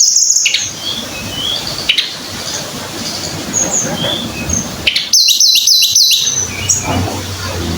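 Tledekan gunung, a Javanese flycatcher, singing: scattered high, clear whistled notes, then a quick run of about five falling whistles about five seconds in. A low steady hum comes in near the end.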